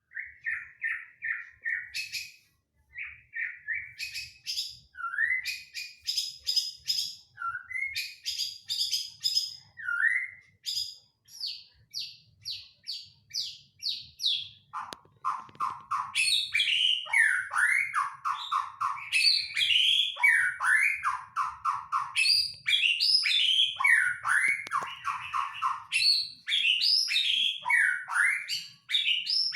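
White-rumped shama singing: a long run of varied phrases made of quick series of repeated whistled notes, rising and falling slurs and high chips. About halfway through the song gets louder and fuller, with lower rapid note runs mixed among sweeping whistles.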